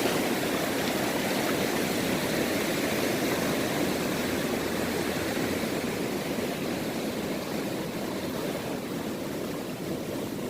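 Ocean surf washing over a sandy beach at low tide: a continuous rushing of water that eases a little toward the end.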